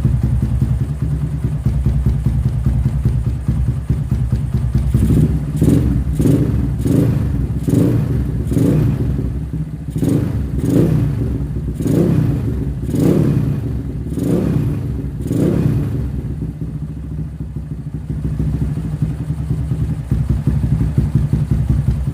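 Motorcycle engine through a JMF aftermarket exhaust, idling and then blipped about a dozen times in quick succession, roughly once a second, each rev rising and falling back, before settling to idle again.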